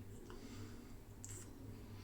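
Faint, steady low hum with a few soft, short clicks.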